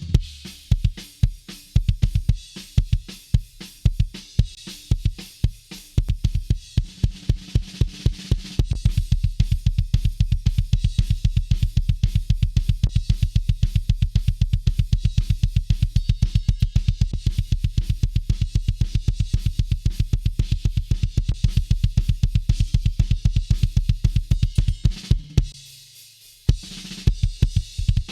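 Metal drum kit playing kick, snare and cymbals. About eight seconds in it breaks into a very fast, steady run of double-bass kick drumming, which ends a few seconds before the close, followed by a short break and a few last hits.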